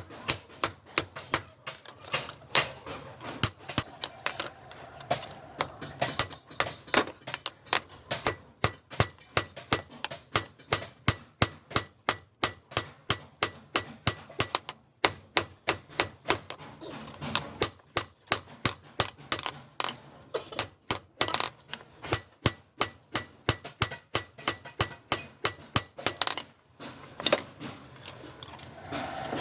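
Blacksmith's hammer striking steel on an anvil again and again, about two to three blows a second with a faint ring after each, pausing briefly midway and near the end: a machete blade being forged.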